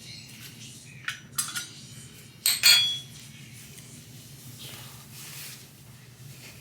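Kitchen utensils and dishware clinking while measuring out yogurt: a few light knocks, then two sharp clinks about two and a half seconds in, the second ringing briefly.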